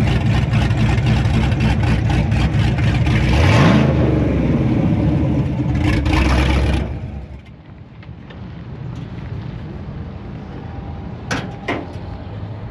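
Truck engine running loudly and revving once, rising in pitch about three seconds in. About seven seconds in the engine sound drops away abruptly, leaving a much quieter background with a few sharp clicks near the end.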